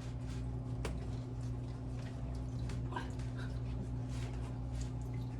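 A few light clicks and knocks from handling plastic pipe fittings on a sump pump discharge line, over a steady low electrical hum.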